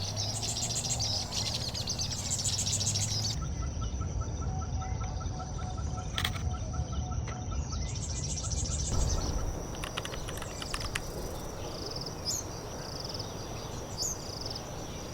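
Small wild songbirds chattering and calling in a dense, fast jumble. In the middle a steady run of quick pips repeats about four times a second, and short high calls come near the end.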